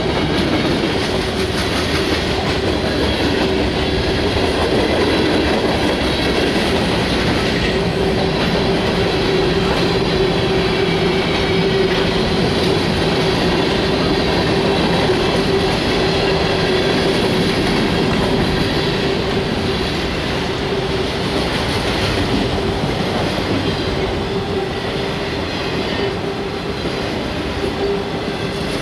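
CSX freight train cars rolling past: steady, loud rumble of steel wheels on rail with clickety-clack, and a steady whining tone from the wheels running throughout.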